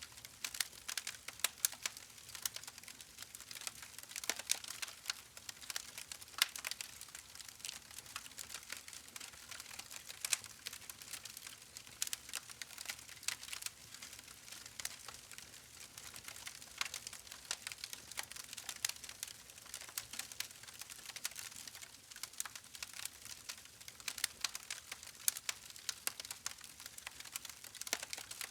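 Campfire burning with an irregular crackle of sharp pops and snaps over a steady soft hiss.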